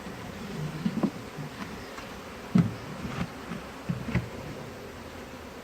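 A swarm of Africanized honeybees buzzing close by in a wavering drone, with several sharp bumps that stand out loudest, about a second in, near the middle and again later.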